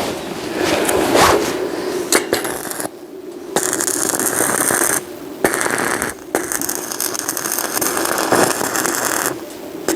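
Electric arc welding: a dense crackling hiss that starts and stops three times in the second half, with short breaks between runs. Before that, a few seconds of clatter and knocks.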